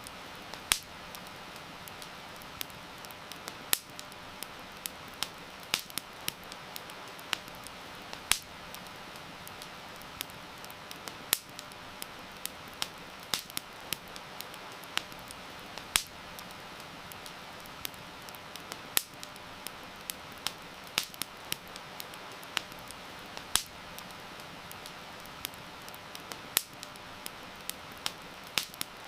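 Wood fire crackling, with irregular sharp pops, a few of them much louder than the rest, over a steady hiss of heavy rain.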